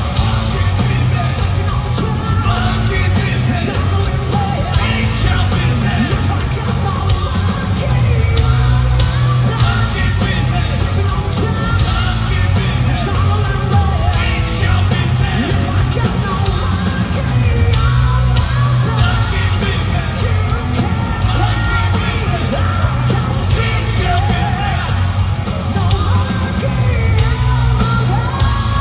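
Hard rock band playing live and loud through a concert PA: distorted electric guitars, bass and drums with a singer, heard from the audience.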